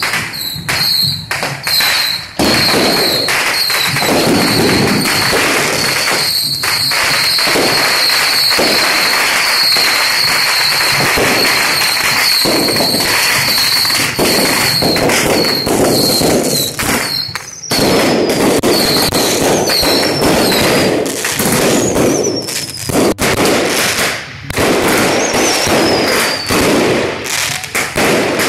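Firecrackers and fireworks going off in a dense, continuous crackle of rapid bangs. A high steady whistle runs through roughly the first half, and several whistles falling in pitch sound in the second half.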